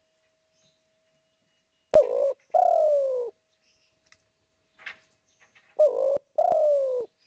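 Spotted dove (derkuku/tekukur) cooing: two phrases about four seconds apart, each a short coo followed by a longer coo that falls in pitch.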